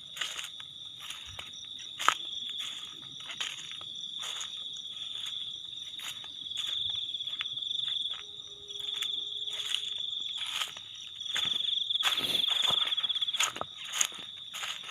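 Crickets chirring steadily in a high band, swelling louder for a second or two a little before the middle and again near the end, over frequent sharp crunches and knocks.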